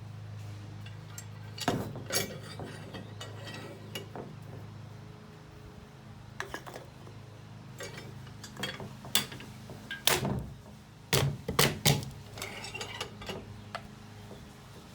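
Metal clinks and knocks from the parts of an old can crusher being handled, in irregular strokes with a louder cluster of clanks near the end, over a steady low hum.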